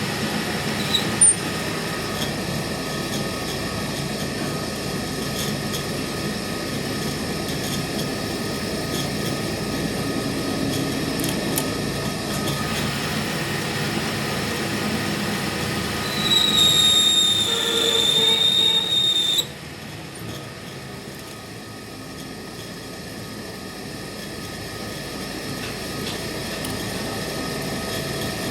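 Metalworking machinery running steadily, with a short sharp knock about a second in. Past the middle comes a high, steady metal-on-metal squeal lasting about three seconds, after which the machine noise drops sharply and then slowly builds again.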